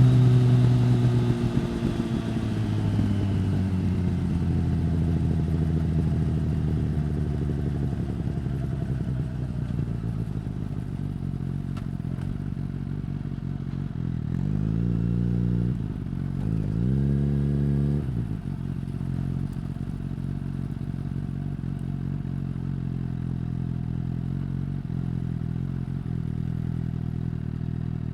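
2015 Suzuki GSX-S1000 inline-four through a Yoshimura R-11 slip-on exhaust. Revs fall away at the start and the engine runs at low revs, with two short throttle rises about halfway through and another just at the end.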